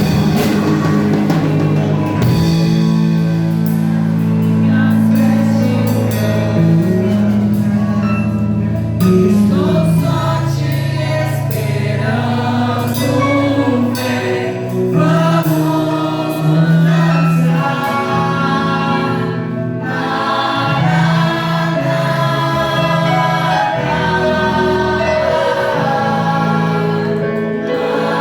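Congregational worship music: a band with sustained keyboard chords and several voices singing together.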